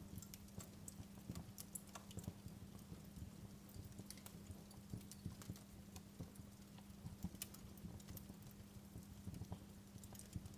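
Wood fire in a fireplace crackling faintly, with irregular sharp pops and snaps over a steady low hum.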